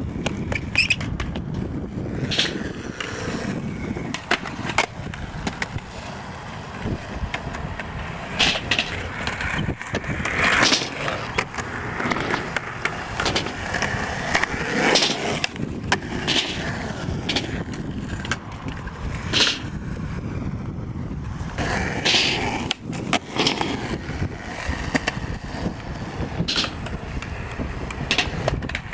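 Skateboard wheels rolling with a steady rumble, broken again and again by sharp clacks of the board popping and landing.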